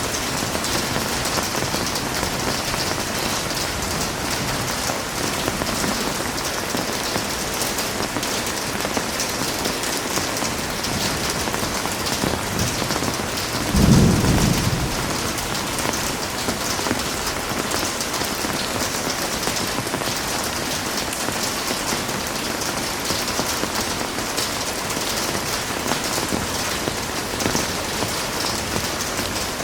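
Heavy rain falling steadily, with one short low rumble of thunder about halfway through.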